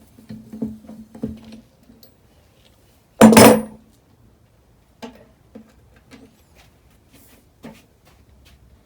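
Metal tools and engine parts being handled: light clinks and knocks, with one loud metallic clank about three seconds in.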